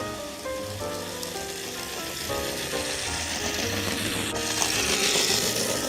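Background music with a hissing noise rising over it, growing louder through the second half and loudest near the end.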